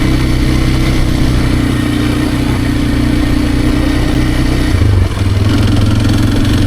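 Kawasaki KLX230R's single-cylinder four-stroke engine running under way on a dirt ride. About five seconds in, the engine note dips briefly and picks back up at a different pitch as the rider shifts up to third gear.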